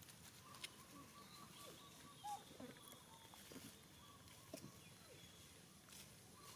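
Faint outdoor ambience with a few soft, short chirping calls, a thin steady whistling tone and light clicks.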